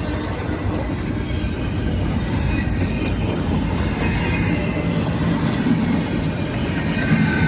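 Train passing close by: a steady rumble of railroad cars rolling on the rails.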